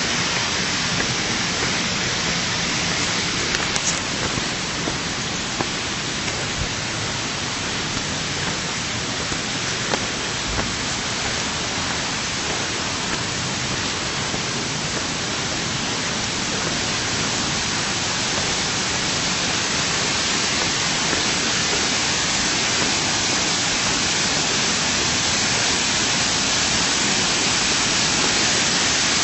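Steady rush of falling water, even and unbroken, growing slightly louder toward the end.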